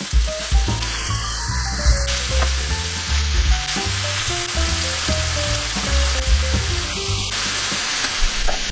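Pork belly sizzling as it is stir-fried in a pan, over background music with a melody and a strong bass line.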